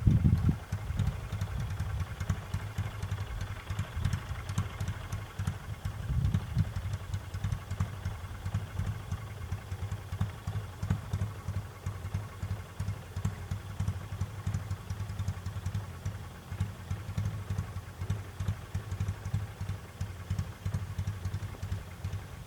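Kawasaki W1SA motorcycle's parallel-twin engine idling, its exhaust giving a steady, rapid low pulse that swells briefly about six seconds in.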